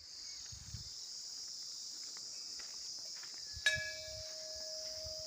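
Steady chorus of insects. A temple bell is struck once about three and a half seconds in and keeps ringing with a steady tone.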